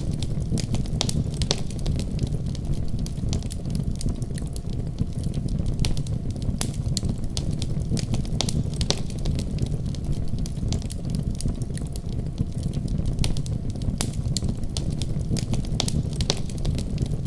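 Wood fire burning in a fireplace: a steady low rumble of flame with frequent, irregular sharp crackles and pops from the burning logs.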